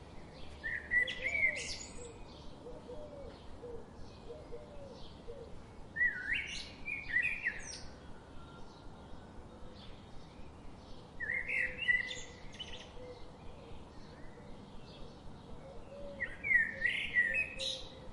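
Birdsong: one short, bright song phrase repeated four times, about five seconds apart, over steady faint chirping from other birds.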